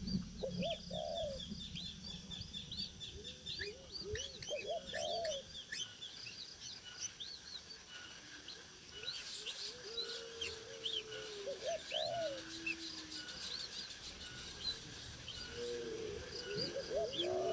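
Several birds calling: a steady scatter of short, high chirps, with lower, arching calls every few seconds.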